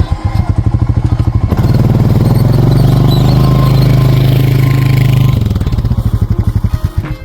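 Four-wheeler engine running close by, first in distinct low putting pulses, then louder and steadier for a few seconds as it is driven, falling back to pulses and cutting off suddenly near the end.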